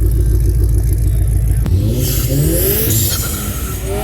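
Car engine idling with a low, pulsing rumble, then revved hard from about two seconds in, its pitch climbing in several rising sweeps.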